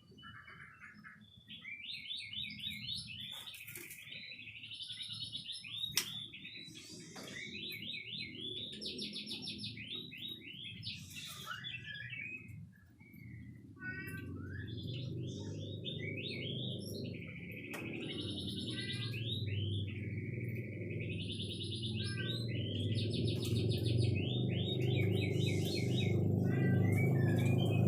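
White-rumped shama (murai batu) singing a continuous run of rapid trills and warbling phrases. A low, steady background noise grows louder under the song in the second half.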